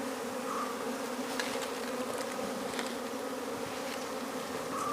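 A swarm of honeybees buzzing steadily, a dense hum of many overlapping tones, with a few faint ticks.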